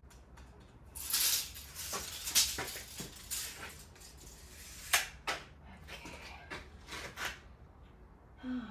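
Irregular knocks, clicks and short scrapes of timber and hand tools being handled while measuring and marking boards, loudest at about one, two and a half and five seconds in.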